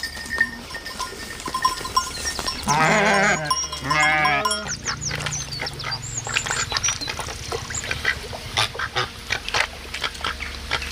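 Goats bleating twice with a wavering voice, about three and four seconds in, followed by a run of irregular clicks and knocks over a steady low rumble.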